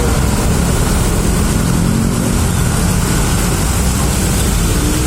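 Steady noise of jammed road traffic: vehicle engines running with a continuous low rumble.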